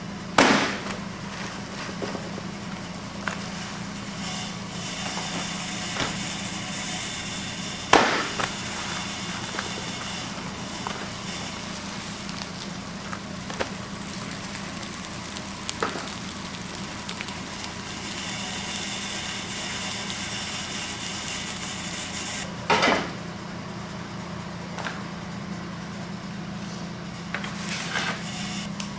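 Wood-fired chicken roasting machine running with a steady low hum and small crackles and clicks from the fire, broken by three loud sharp knocks: near the start, about 8 seconds in, and about 23 seconds in.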